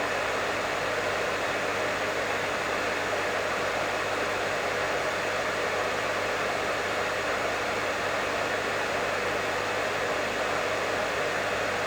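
Professional hair dryer running steadily: an even rush of blown air with a low steady hum underneath, unchanging throughout.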